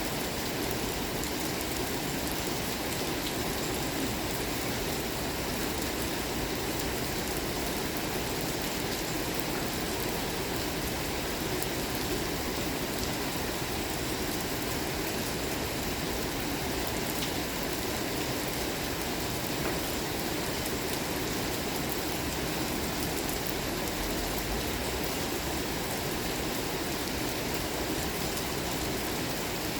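Steady rain falling, an even hiss of many drops with fine scattered ticks throughout.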